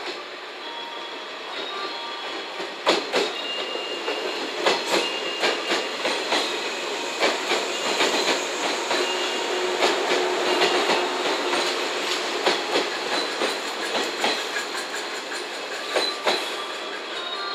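JNR 115 series electric multiple unit rolling past at low speed as it pulls into the platform, its wheels clacking irregularly over rail joints and points, with thin high squeals from the wheels or brakes.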